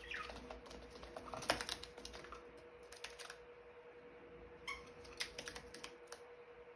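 Budgies making small, irregular beak clicks and taps while pecking, with a short falling chirp at the start and another brief chirp a little before the five-second mark.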